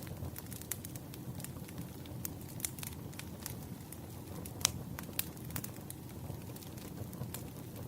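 Wood fire burning, a steady low rumble of flames under irregular sharp crackles and pops, with one louder pop about halfway through.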